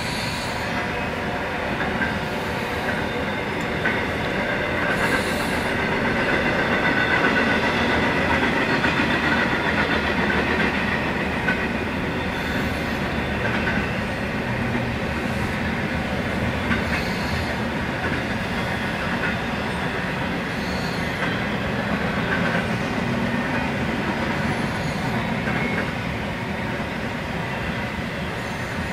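Freight train cars rolling past: a steady rumble and rattle of steel wheels on rail. Faint high wheel squeal is loudest about a quarter of the way in, and occasional sharp clicks come every few seconds.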